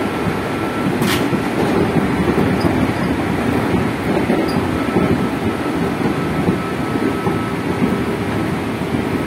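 Running noise inside a JR 205 series electric commuter train's motor car at speed: a steady rumble of wheels on rail with the traction motors and gears humming. A short sharp click about a second in.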